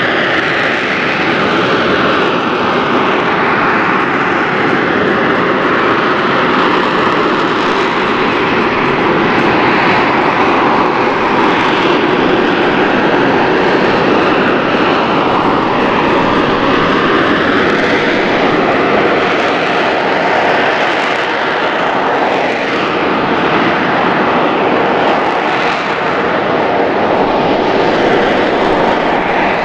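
AV-8B Harrier II's Pegasus turbofan running at high power, a loud and steady jet roar whose whine slowly bends up and down in pitch.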